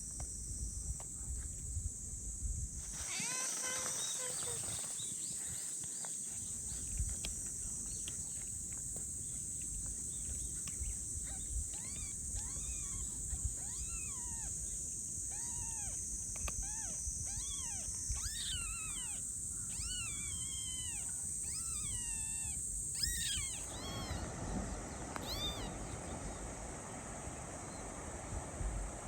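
Young kitten mewing over and over: short high calls that rise and fall, about one a second, starting some ten seconds in and coming thicker and higher toward the middle. A steady high insect trill runs behind.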